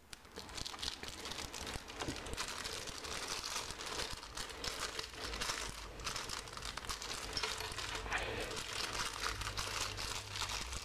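Packaging crinkling and crackling as it is handled and pulled open to free a small model stand, with a steady run of small crackles and occasional tearing.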